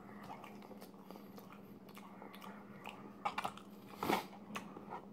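A person chewing food close to the microphone: faint, mouth-closed chewing, then a few short, sharp wet clicks and smacks in the last couple of seconds.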